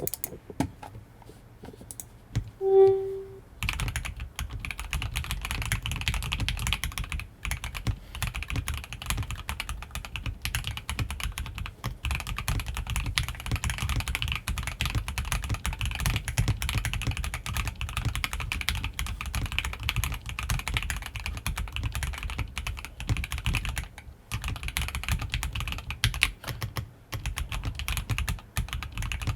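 A short beep about three seconds in. Then continuous typing on a KBD67 Lite R1 mechanical keyboard fitted with lubed and filmed C3 Fierce Girls switches and Durock V2 stabilisers: a steady stream of deep keystroke clacks.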